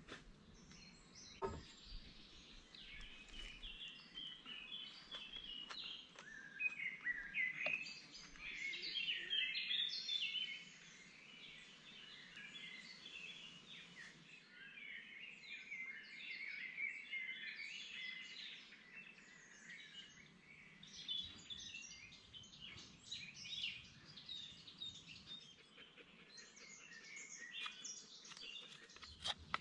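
Several wild birds singing and chirping in woodland, a dense faint chorus of short high calls. There is a single sharp knock about a second and a half in.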